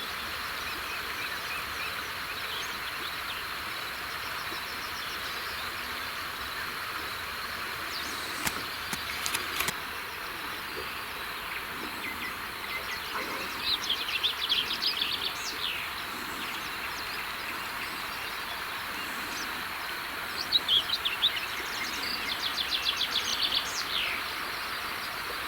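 Birds singing in short trilled phrases of rapid notes, several times, over a steady outdoor hiss; a few faint clicks come about eight to ten seconds in.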